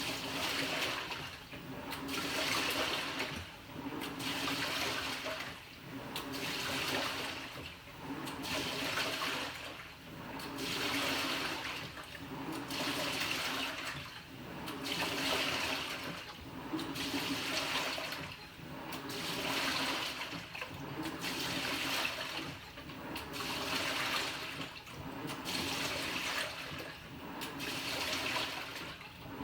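Panasonic NA-FA100H9 top-loading washing machine agitating: its pulsator churns the water and laundry in the drum, a sloshing and swishing that swells and fades about every two seconds as the drive reverses back and forth.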